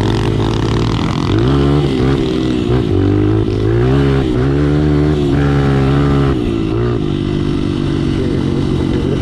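Small four-stroke pit bike engine under way, revving up and easing off several times, then holding a steady lower pitch for the last couple of seconds.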